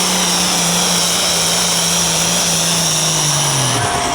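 Turbocharged diesel engine of a pro stock pulling tractor running hard under load, with a high turbo whistle above it. The engine's pitch sags slowly, then drops sharply near the end as the revs fall off.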